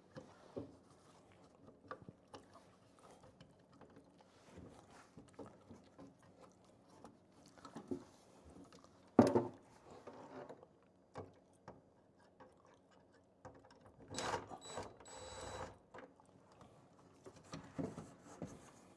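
Scattered handling sounds as electrical cable and a plastic old-work box are worked into a drywall hole: light clicks and rustles, a sharper knock about halfway through, and a longer scraping rustle later on.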